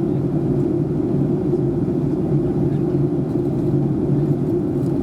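Steady cabin drone inside a Boeing 737-800 in flight: CFM56-7B engine hum and airflow noise, a constant low roar with a couple of steady humming tones and no change in pitch.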